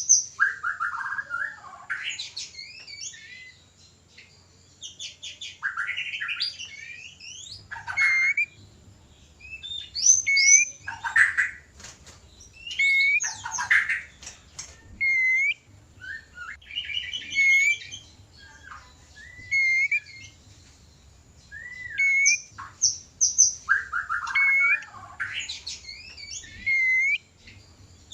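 White-rumped shama (murai batu) singing a courtship song: loud, varied phrases of clear whistles, up-and-down slurred notes and fast rattling trills, coming one after another a second or two apart.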